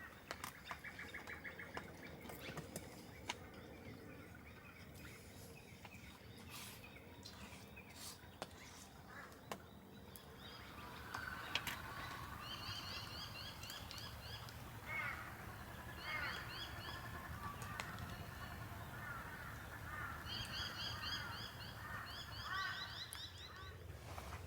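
Birds calling outdoors: from about halfway, repeated runs of fast, high chirps over lower warbling calls. The first half has scattered sharp clicks and knocks.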